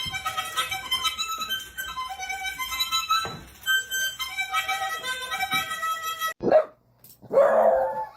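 Background music with a melody of short held notes, which stops abruptly. A dog then barks twice: a short bark, and a longer, louder bark near the end.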